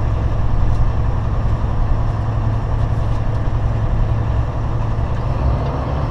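Semi-truck's diesel engine and road noise heard from inside the cab while driving, a steady low drone.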